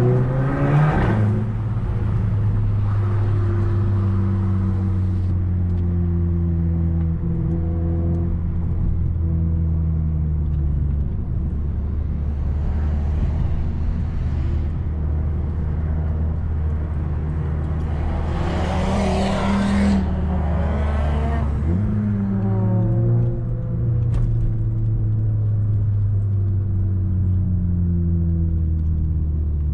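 Audi A3 2.0 TFSI's turbocharged four-cylinder running through a 2.5-inch downpipe and catback exhaust while driving, a steady drone whose pitch climbs and drops with the revs and gear changes. It swells louder and brighter under throttle, most strongly about two-thirds of the way through.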